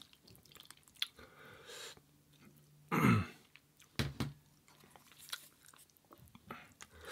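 Close-miked eating sounds from a bowl of ramen noodles and broth: wet chewing with small clicks. A louder, short wet mouth sound comes about three seconds in and another about a second later.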